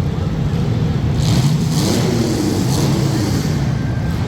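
Demolition derby compact cars' engines running loud, one revving up and back down in the middle, with a noisy hiss over the revving.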